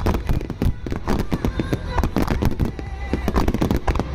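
Aerial fireworks bursting in rapid, overlapping succession, a dense stream of bangs and crackles.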